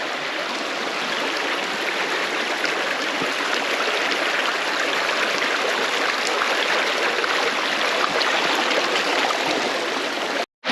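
Snow-covered mountain creek running steadily, a constant rush of water that grows slightly louder, broken by a brief dropout to silence near the end.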